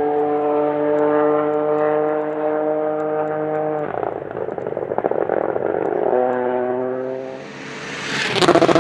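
Toyota GR Yaris Rally2 rally car's engine and exhaust at full load, a steady strong note with its pitch sagging slightly, breaking into a crackle about four seconds in. The engine note returns lower about six seconds in and fades, then a loud rush builds near the end as a car comes close.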